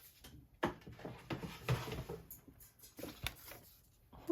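Paper ephemera being handled and set down on a journal page: soft rustling with a few light taps.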